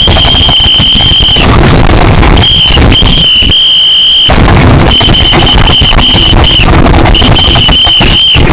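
Very loud, distorted crackling noise with a piercing steady high-pitched tone that cuts in and out about six times.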